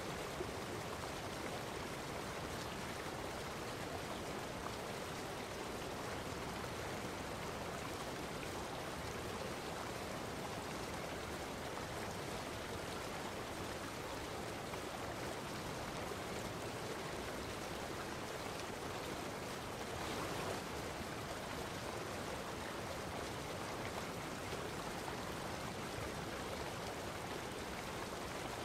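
Steady rushing water, like a running stream, with a slight swell about twenty seconds in.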